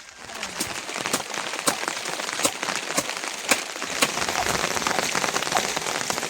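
Heavy rain falling steadily, with sharp, loud hits of single drops striking a nearby surface. The rain noise swells up about half a second in.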